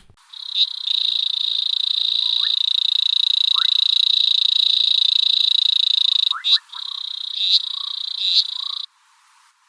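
Natal leaf-folding frog calling: a high, rapidly pulsed trill held for about six seconds, then broken off and resumed in a few shorter bursts before stopping near the end.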